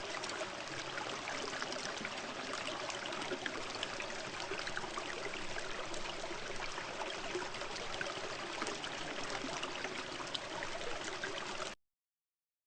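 Steady running water, like a small stream trickling, that cuts off abruptly near the end.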